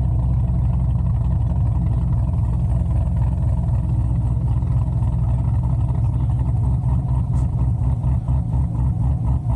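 Big-cam LS7 7.0-litre V8 of a C6 Corvette Z06 running with a deep, steady exhaust rumble that breaks into an uneven, choppy pulse near the end.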